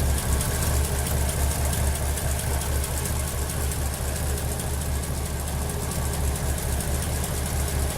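Ford Fairlane 500's 6-litre V8 engine idling steadily, with a low, evenly pulsing note.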